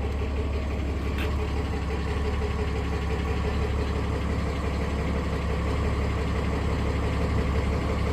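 Truck engine idling steadily, left running to charge the battery after sitting for a couple of weeks. A single short click about a second in.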